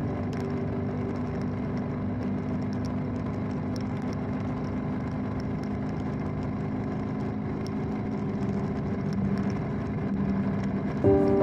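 BMW motorcycle running at a steady pace: an even engine drone under wind and road noise, with faint scattered ticks that fit raindrops.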